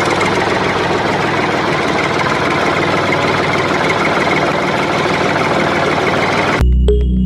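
A motor or engine running steadily at a constant pace, with a dense rattling sound. Near the end it cuts off abruptly and electronic music takes over.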